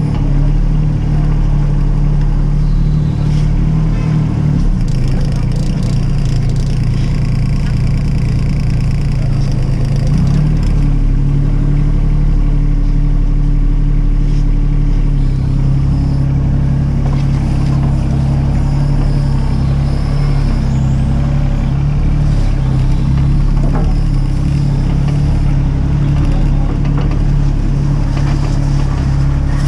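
Mini excavator's diesel engine running steadily at working speed, its note shifting a few times as the load changes.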